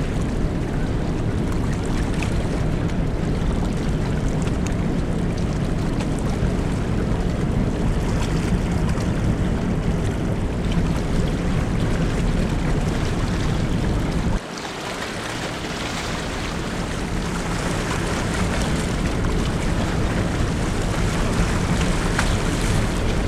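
Steady low rumble of the large car ferry Ferry Suou under way, with wind and water noise over it. About fourteen seconds in, the low rumble drops away suddenly and then slowly builds back up.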